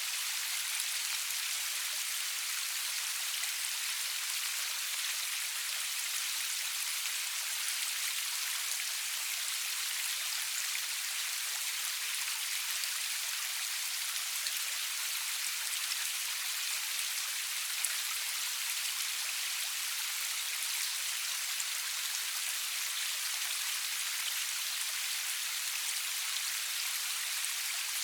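Steady rain falling, an even hiss of many fine drop patters with no thunder.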